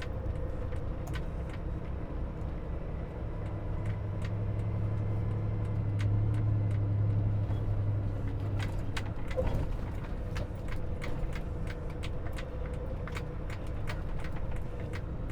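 Semi truck's diesel engine running at low speed, heard from inside the cab, with scattered light rattles and clicks. The engine hum grows louder and deeper for a few seconds around the middle.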